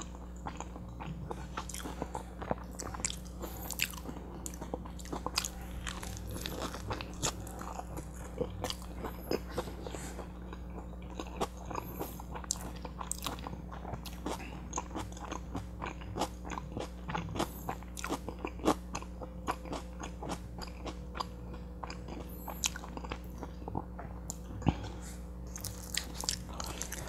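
A person chewing mouthfuls of a butter chicken burrito close to a clip-on mic: wet, irregular mouth smacks and small clicks, over a low steady hum.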